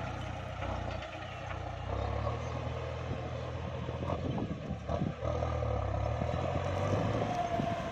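Kubota MU5702 tractor's diesel engine running steadily under load while ploughing rutted ground, with a few short knocks and rattles around the middle.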